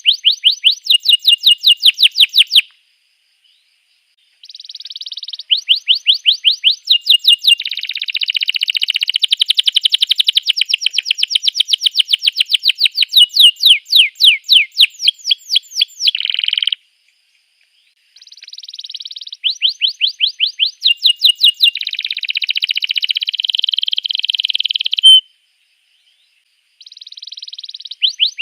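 Domestic canary singing: bouts of fast repeated chirping notes and buzzy trills, broken by short pauses about four, eighteen and twenty-six seconds in.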